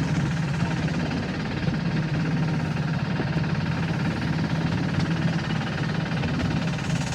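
An engine running steadily, a constant low drone with a noisy rumble over it.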